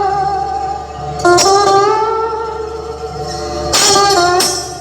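Music played loud over a large competition sound system: long, slightly bending melody notes, guitar-like, over a steady deep bass tone, with the note changing about a second in and again near the end.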